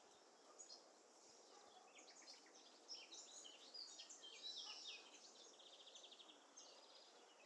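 Faint songbirds singing and calling, a busy mix of quick chirps and short warbled phrases, with a rapid buzzy trill about six seconds in, over a soft steady outdoor hiss.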